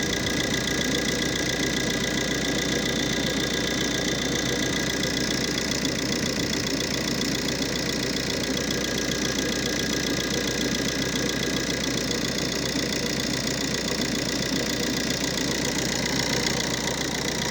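Engine idling steadily at constant revs, with no rise or fall in speed.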